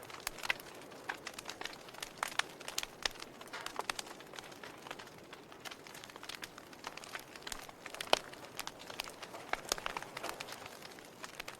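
Log fire crackling: irregular sharp pops and snaps from the burning wood over a soft hiss, with one louder pop about eight seconds in.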